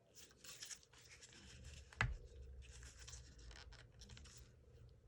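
Faint handling noises of an airsoft rifle being taken apart: light scraping and rustling of parts, with one sharp knock about two seconds in.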